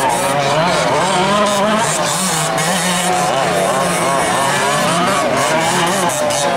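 Several 1/5-scale gas-powered RC off-road trucks racing, their small two-stroke engines revving up and down together with a continuous rise and fall in pitch.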